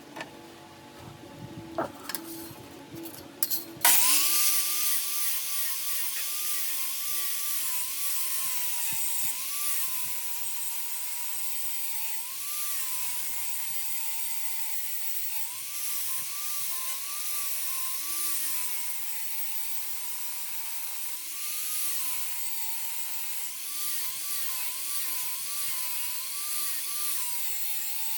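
Handheld angle grinder switched on about four seconds in after a few handling clicks, then grinding steel, its motor pitch repeatedly dipping and recovering as it is pressed into the work.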